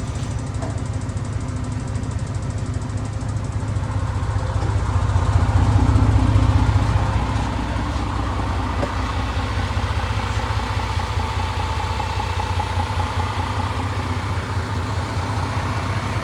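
Truck engine running steadily at low revs, swelling louder for a couple of seconds around the middle before settling back.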